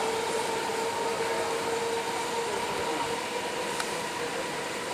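EMU electric local train running through the station, a steady whine in two pitches over a continuous hiss; the whine sinks slightly in pitch about halfway through.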